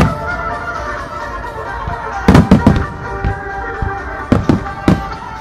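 Starmine fireworks shells bursting in sharp bangs over music played for the display: one bang at the start, a quick cluster of three about two seconds in, and several more near the end.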